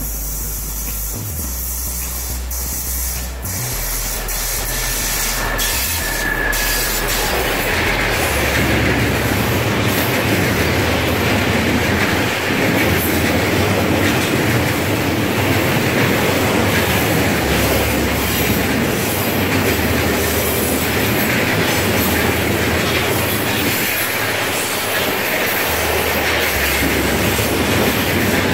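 Freight train of tank wagons with electric locomotives passing close by, wheels rumbling and clattering on the track. It grows louder over the first several seconds as the head of the train arrives, then stays steady and loud as the wagons roll past.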